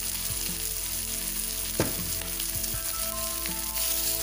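Chicken pieces sizzling as they fry in hot mustard oil in a non-stick kadai, stirred with a spatula, with one sharp knock about two seconds in.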